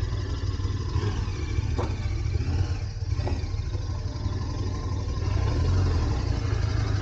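KTM 1290 Super Adventure S V-twin engine running at low speed, a steady low rumble that swells a little about five seconds in.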